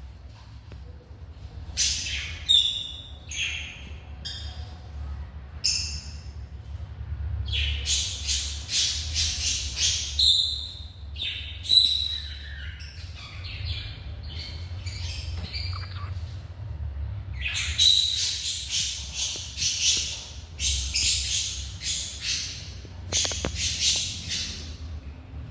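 Small pet parrots squawking and chirping in many short, shrill calls and chattering runs, over a steady low hum.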